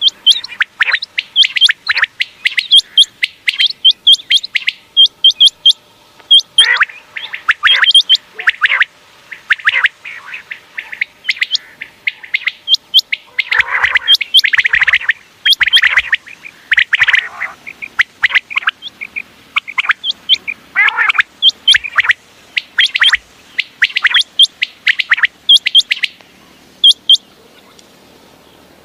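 Common quail calling over and over: dense runs of short, sharp chirping notes, often overlapping as if from several birds, with a short lull just before the end.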